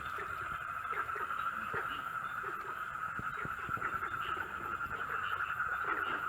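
Night-time farm ambience: a steady, dense chorus of calling night creatures, with short lower calls scattered through it.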